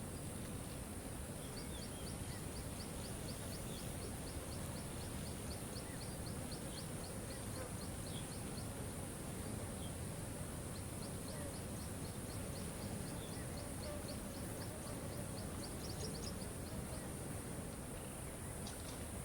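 Steady rush of a waterfall, with a bird repeating a rapid series of high ticking notes, about four a second, in two long runs, and a few short chirps in between.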